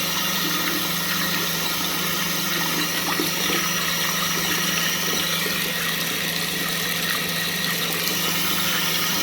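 Water running steadily, rinsing plating solution off a copper-plated piece, with a low steady hum under it.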